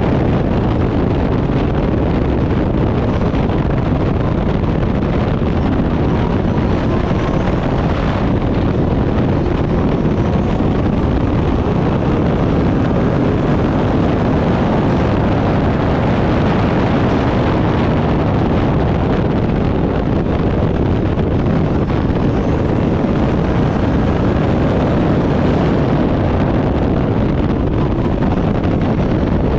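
Turbocharged Backdraft Cobra race car driven at racing speed, its engine running hard with wind rushing over the microphone, a loud unbroken roar.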